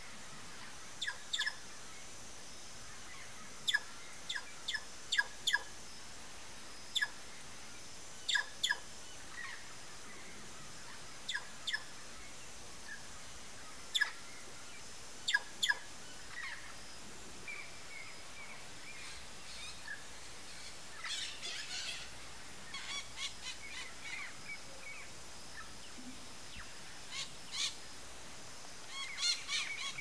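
Wild birds calling: short, sharp single and paired call notes at irregular intervals, then a busier run of twittering calls in the second half.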